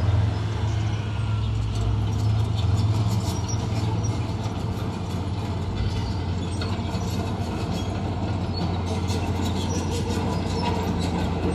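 Crawler bulldozer's diesel engine running steadily under load, with steel track links clanking and clattering throughout.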